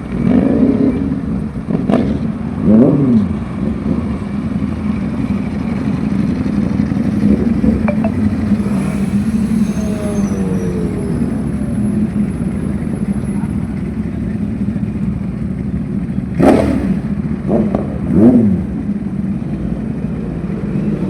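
Motorcycle engine idling steadily, with a few short throttle blips that rise and fall, one about three seconds in and two near the end.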